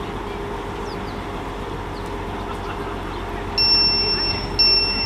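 Class 175 diesel multiple unit idling at the platform with a steady hum. Near the end the door-closing warning starts sounding: loud high-pitched beeps about a second long with short gaps between them, signalling that the doors are about to shut.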